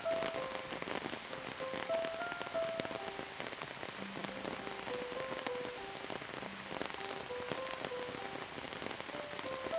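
Steady rain falling, with many individual drops ticking through it. A soft, slow tune of single held notes plays over the rain.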